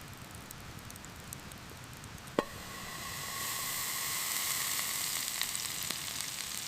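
Food frying and sizzling in a hot pan over a campfire. A sharp knock comes a little over two seconds in, and the sizzling then grows louder.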